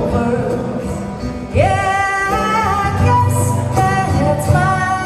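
A singer performing a cover song with guitar accompaniment, holding long sung notes.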